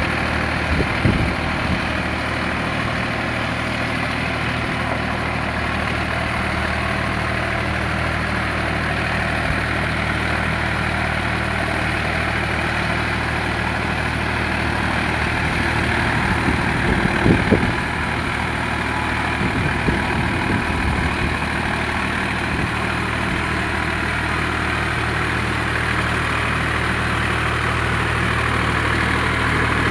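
Sonalika RX 47 tractor's diesel engine running steadily, with a few brief knocks or clatters about a second in and again around the middle.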